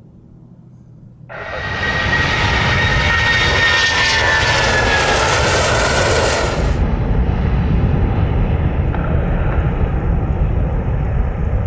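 Boeing 757 jet airliner's engines, heard loud as it passes, starting abruptly about a second in with a high whine gliding slightly down. Near the middle the hiss suddenly loses its top, leaving a steady low rumble.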